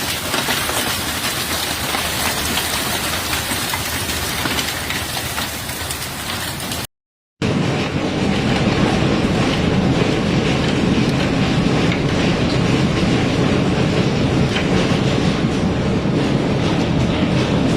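Heavy rain pouring down in a steady, loud roar. About seven seconds in the sound drops out for a moment, then comes back deeper and louder.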